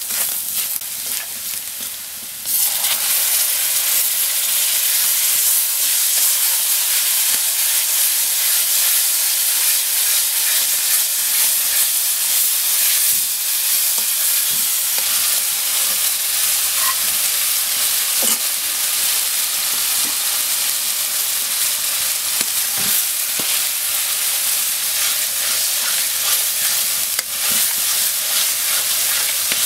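Curry masala of onion, garlic, spices and tomato frying in oil in a metal wok, with a steady sizzle and a metal spatula stirring and scraping against the pan. The sizzle gets suddenly louder about two and a half seconds in.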